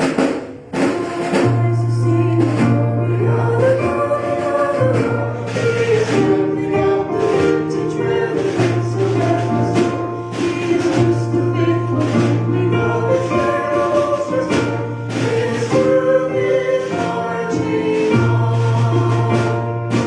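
Gospel-style worship music: voices singing together over a bass line of long held notes and regular drum hits.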